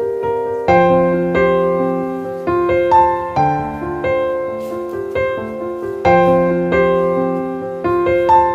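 Background music: a gentle piano piece playing sustained chords and melody notes.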